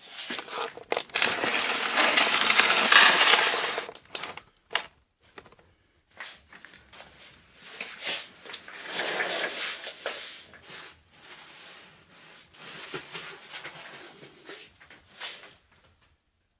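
Irregular crunching and rustling handling noises, loudest for the first four seconds, then coming and going in quieter patches with a few sharp knocks.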